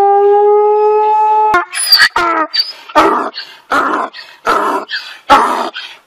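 A dog howling: one long held note that rises slightly at first, then cuts off about a second and a half in. A donkey then brays, a rough series of loud alternating hee-haw calls at about two a second.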